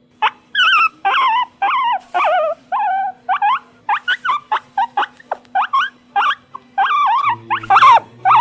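A series of short, high-pitched animal calls with a whining, wavering pitch, about two a second, getting shorter and quicker later on.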